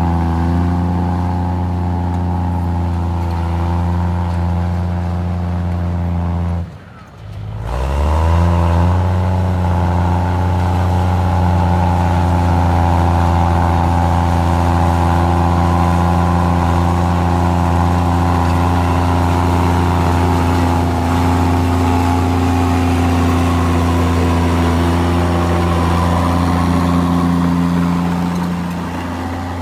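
Komatsu D53E bulldozer's diesel engine running under load. About seven seconds in the sound drops out briefly and comes back with a rising pitch as the engine revs up. It then runs steadily and eases a little near the end.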